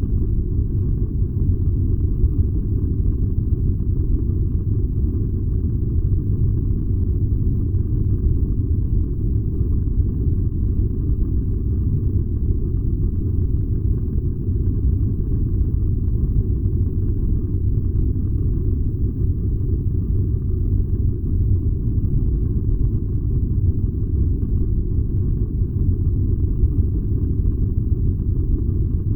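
Furnace running: a steady, unchanging low rumble, nearly all of it deep bass.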